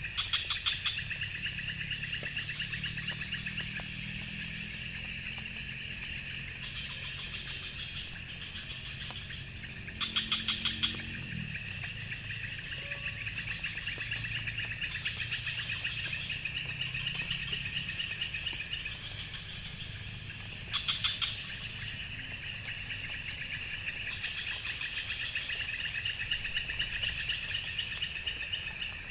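Night chorus of forest insects, crickets and the like: a steady high buzz with fast pulsing trills. A louder pulsed call starts about every ten seconds and lasts a second or so.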